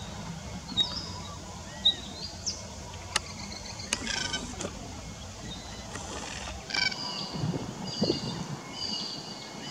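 Birds calling in the background: a few short high chirps in the first two seconds, two longer calls with several overtones at about four and seven seconds, and repeated steady high notes near the end. A few sharp clicks and a light background hiss run underneath.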